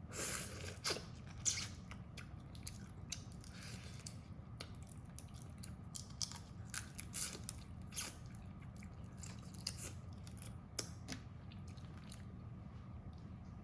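Crab being eaten: crab shell cracking and crunching between the teeth, with wet chewing, heard as an irregular string of crisp crunches and clicks, the loudest in the first two seconds, over a low steady hum.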